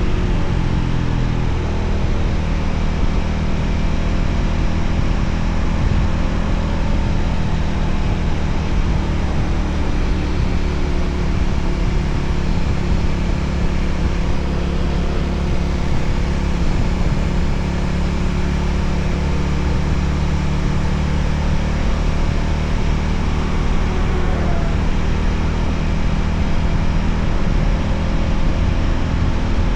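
Voge 300ACX motorcycle engine running steadily while riding at an even speed, with wind rushing over the microphone.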